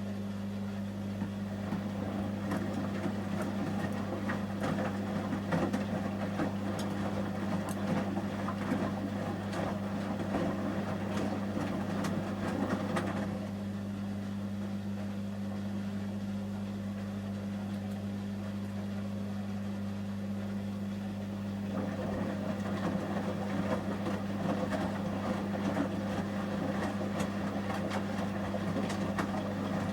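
Samsung Series 5+ washing machine tumbling a load of shirts during the heating stage of a 30 °C wash, over a steady low hum. The drum turns with water sloshing for about twelve seconds, pauses, then turns again from about 22 seconds in.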